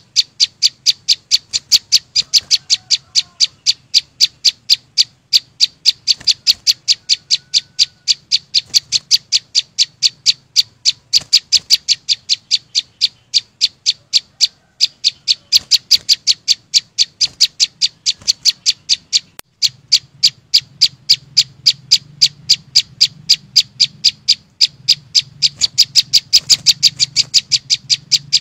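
Flowerpecker calling: a long, unbroken series of sharp, high chips, about three a second, over a faint low hum.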